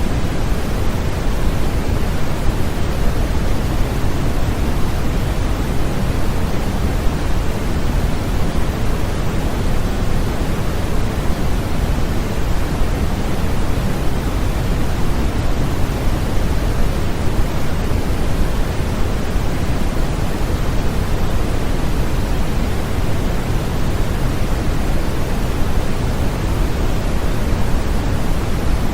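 Steady, unbroken sleep-aid noise, an even hiss weighted toward the low end, with no changes or other sounds.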